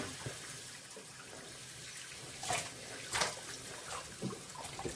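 Tap water running into a sink of water as a dog is rinsed, with a couple of brief splashes about two and a half and three seconds in.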